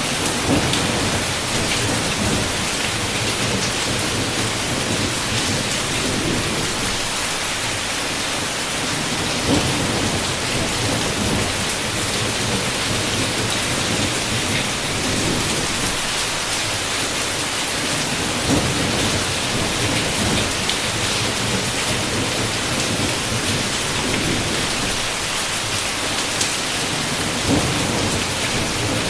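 Heavy rain falling steadily on a window, with a low rumble of thunder beneath it. A sharper tap stands out about every nine seconds.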